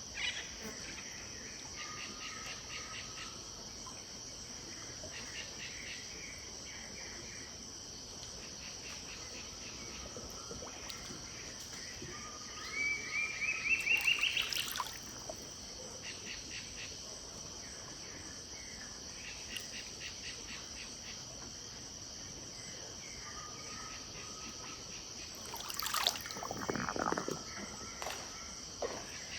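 Pantanal riverside dusk chorus: a steady high insect buzz with wild birds calling in short repeated notes. About halfway there is a run of notes climbing in pitch, and near the end a louder burst of calls sweeping down.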